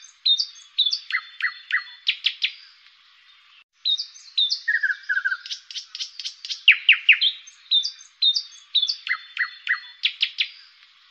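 Birds chirping and tweeting: quick runs of short high chirps and fast downward-sweeping notes, with a short break about four seconds in.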